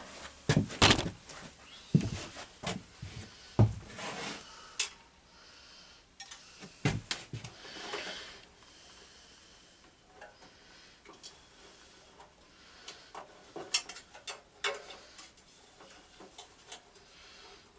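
Metal hand tools and parts clinking and clattering as they are picked up and handled. There is a dense run of knocks in the first few seconds, then scattered clicks and rubbing.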